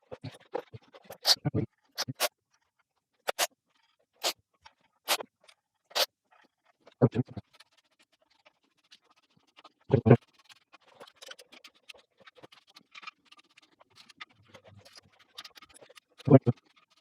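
Scattered sharp metallic clicks, then three heavier dull knocks and faint scraping, as hand tools and bolts are handled while a clutch pressure plate is fitted to an engine's flywheel.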